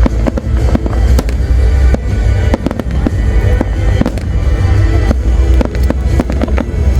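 Large fireworks display going off non-stop: a dense run of sharp bangs and crackles, several a second, over a continuous deep rumble of launches and bursts, with music playing alongside.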